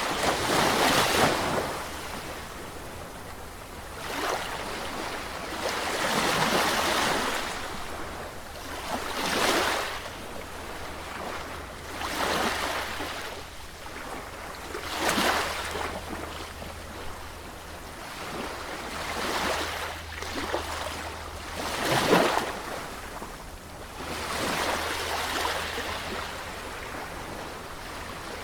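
Sea waves breaking on a shore: a surge of surf about every three seconds, about eight in all, each swelling and falling away, over a steady low rumble.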